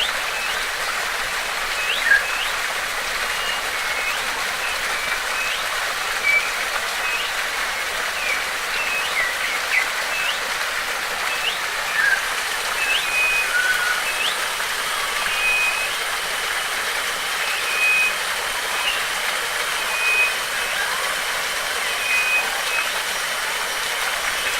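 Steady rush of flowing water, with a bird repeating short whistled notes about once a second over it. A faint thin high tone comes in about halfway.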